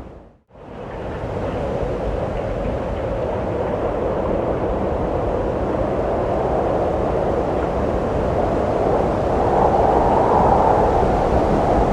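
Wind blowing in a steady rush, briefly fading out to silence about half a second in, then coming back and swelling in a stronger gust near the end.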